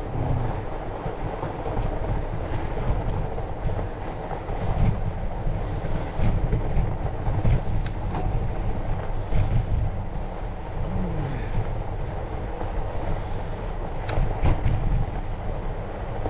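A fat bike riding over a snowy trail: a continuous low rumble from the tyres and frame, with scattered clicks and rattles.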